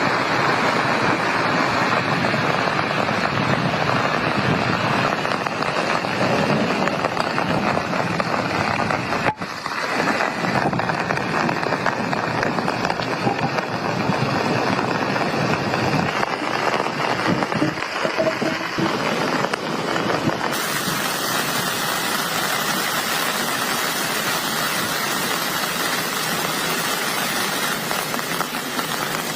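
Heavy rain pouring down in a steady, dense hiss, with a brief dropout about nine seconds in.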